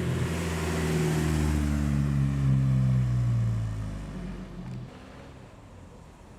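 A car driving past and away, its engine note falling steadily as it goes, then fading out about four to five seconds in.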